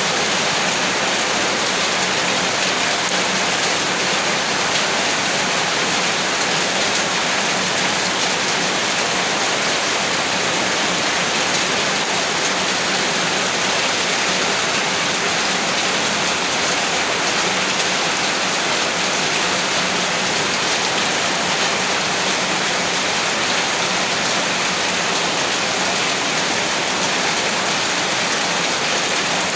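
Heavy rain falling steadily on a surface, an even, constant hiss with no let-up.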